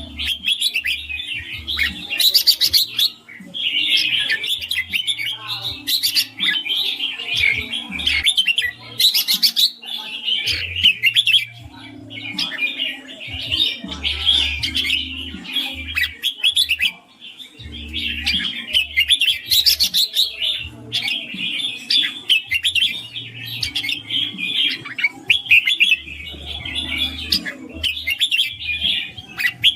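Red-whiskered bulbuls singing and chirping in quick, dense phrases, nearly without a break.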